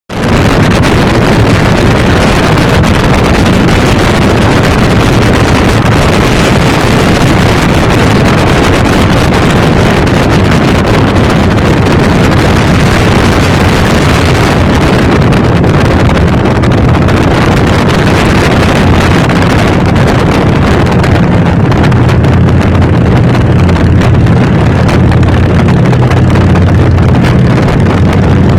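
Harley-Davidson motorcycle's V-twin engine running steadily while riding, with heavy wind noise on the microphone. The low engine hum grows a little stronger in the last third.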